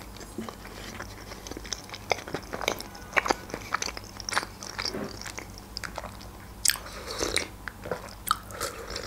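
Close-miked mouth sounds of chewing creamy penne pasta: irregular wet clicks and smacks, with a sip from a mug near the end.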